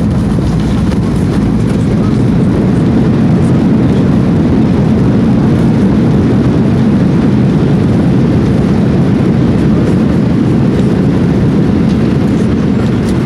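Steady low rumble of a jet airliner on the ground just after landing, engine and rolling noise without breaks.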